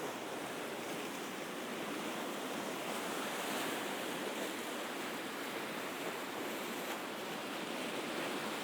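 Sea surf washing steadily onto the shore, an even continuous rush of water.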